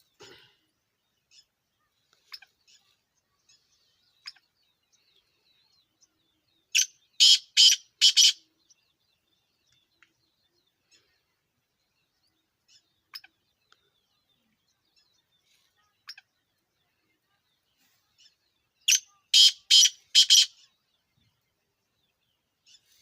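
Black francolin calling: two bouts of about four short, sharp notes each, some twelve seconds apart, with quiet between them.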